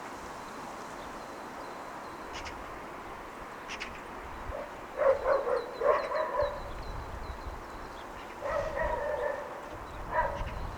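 A dog barking in short runs of several barks, about halfway through and again near the end, over a steady background hum of city ambience.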